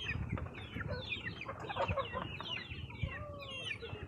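A flock of backyard free-range chickens clucking, with many short, high, falling calls overlapping throughout.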